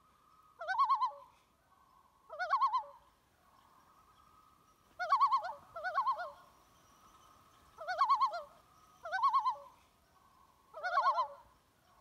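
Bird calls: seven short, quavering calls with a fast wavering pitch, some coming in close pairs, over a faint steady hum.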